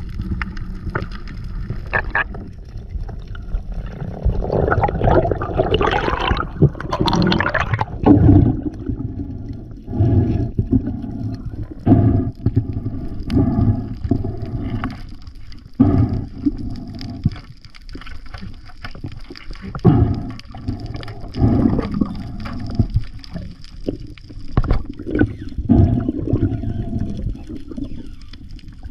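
Water gurgling and sloshing in irregular surges every second or two, heard underwater.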